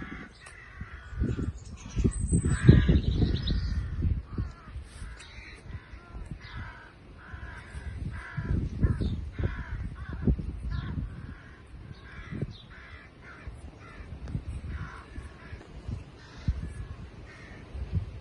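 Many birds calling with harsh, repeated cawing calls, overlapping throughout. Bursts of low rumble come and go, around two and nine seconds in.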